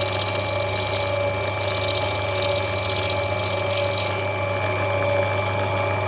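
Lapidary grinding wheel running with a steady motor hum and a hiss as a rough opal is rubbed back against it. The hiss stops abruptly about four seconds in while the motor keeps running.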